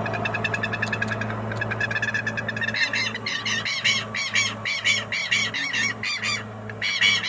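Birds calling in a fast series of short, high calls, several a second, louder from about three seconds in.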